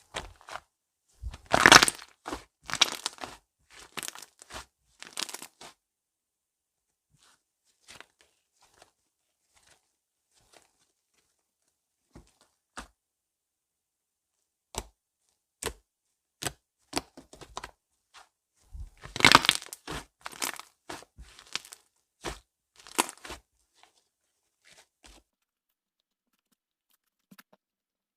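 Slime being worked by hand: sticky crackling and popping clicks, two dense flurries with scattered single pops between them.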